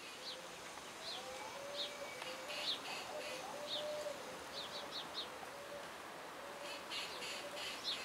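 Birds calling: short, sharp, high chirps every second or so, some in quick clusters, over a lower note repeated steadily about twice a second.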